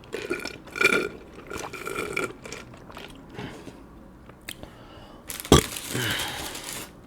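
A person burping: a drawn-out burp over the first couple of seconds, then a sharp click and a rough, breathy burst near the end.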